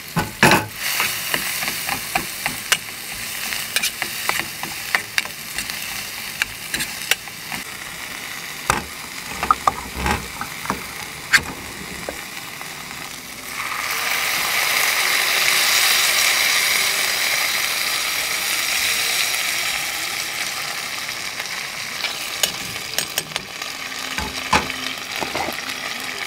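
Sliced onion and green chilli frying in a camping pot, crackling with scattered sharp clicks. About halfway through, sauce poured into the hot pot sets off a loud, hissing sizzle that slowly dies down.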